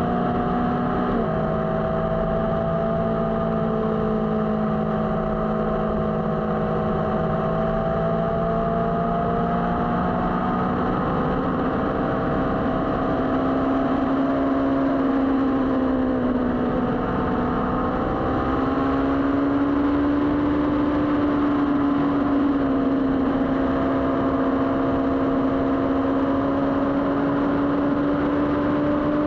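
Motorcycle engine running under way. The pitch drops suddenly about a second in, as at a gear change, then rises and falls slowly with speed.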